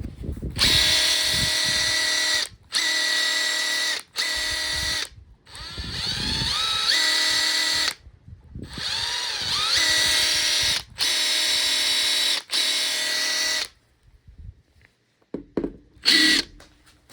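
Makita TP141D 18 V cordless 4-mode impact driver spinning with no load in about eight short trigger pulls, each a steady whine lasting one to two seconds. Twice the trigger is squeezed gradually, so the whine rises in pitch before levelling off. These are function-test runs of the repaired, cleaned tool.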